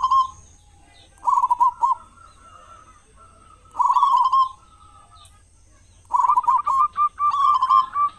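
Zebra dove (perkutut) cooing: short phrases of quick rolling coos repeated every couple of seconds, with a longer, busier run of calls in the last two seconds.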